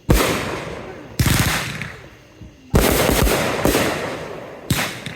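Fireworks going off: about five loud bangs, each trailing off in a long echoing rumble, the first three about a second and a half apart and the last two closer together.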